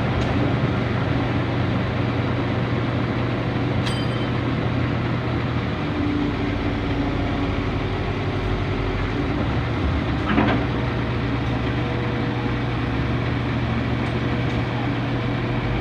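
Heavy diesel machinery running steadily. Its engine note shifts for a few seconds mid-way, and there is one sharp knock about ten seconds in.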